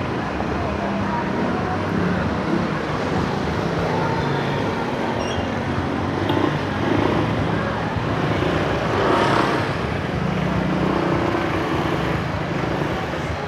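Street traffic: motorcycle and car engines running past in a steady din, with one vehicle passing louder about nine seconds in.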